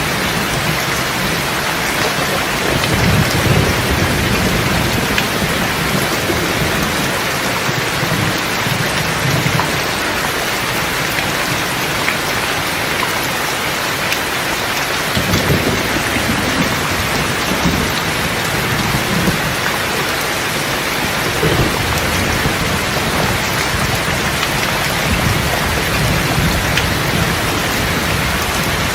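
Steady rain pattering down, with low rolls of thunder rumbling in several times.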